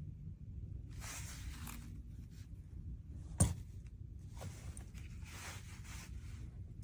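Low steady rumble of a car running, heard inside the cabin, with two spells of rustling handling noise and one sharp click about three and a half seconds in.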